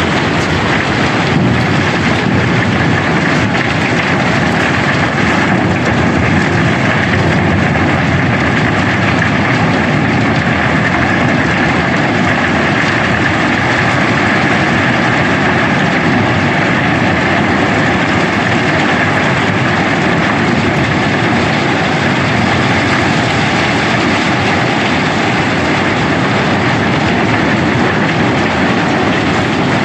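Continuous loud rumble of a barge being unloaded of cobblestones: rocks pouring and rattling together with heavy machinery running.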